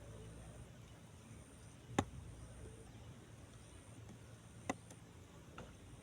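Two sharp clicks over a faint, steady outdoor background: a loud one about two seconds in and a softer one near the end.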